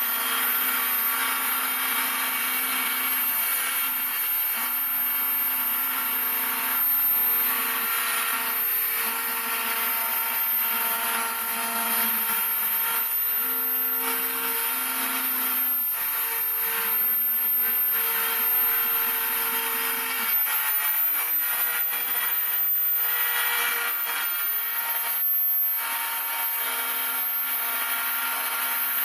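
Homemade CNC router milling: the spindle runs with a steady whine over cutting noise, while the stepper motors whine at pitches that shift, pause and resume as the axes move.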